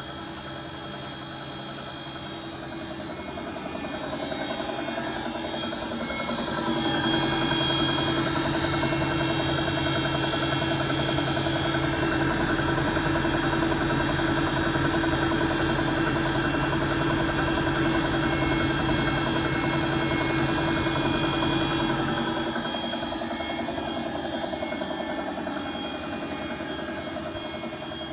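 Bosch WFP3300 washing machine running: the motor and drum build up over a few seconds, hold steady, then drop back near the end, with a repetitive 'tukka tukka' noise that the owner wonders may come from worn drum bearings.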